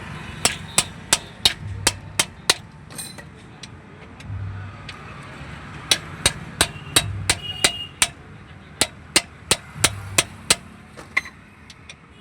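Hammer striking metal in three quick runs of sharp blows, about three a second, over a low rumble. The blows belong to fitting a new exhaust silencer on a truck.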